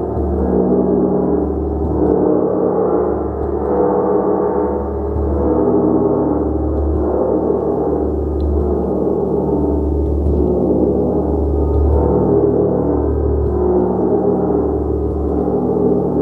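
A gong being played continuously, struck repeatedly so its many overlapping tones sustain as one dense ringing wash, with a deep hum that swells about every two seconds.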